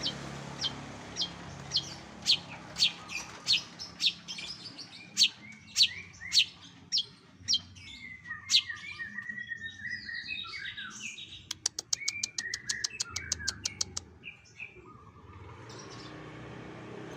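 A cendet (long-tailed shrike) singing: a run of sharp, high chip notes about twice a second that speeds up, then a warbling phrase and a fast rattling trill partway through, before the song fades.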